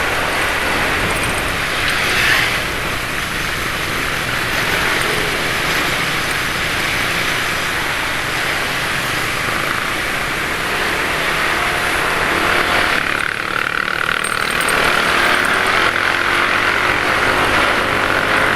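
Motorbike traffic on a road: a steady rush of engine and road noise, with a vehicle passing close about two seconds in. A thin steady high tone joins in the later part.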